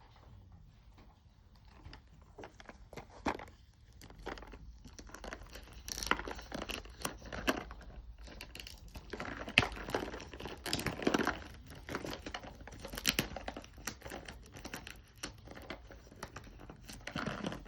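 Toy packaging being crinkled and torn open by hand, with irregular crackles that get busier a few seconds in. The packaging is stubborn to open.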